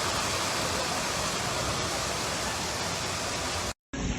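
Steady rushing of floodwater, an even roar that cuts off suddenly near the end.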